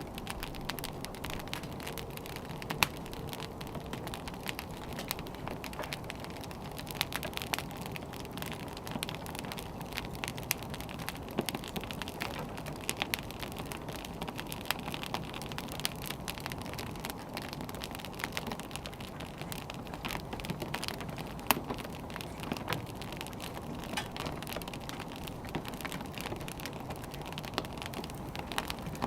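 Burning firewood crackling, with many small pops over a steady hiss and two sharper pops, about 3 seconds in and about 21 seconds in.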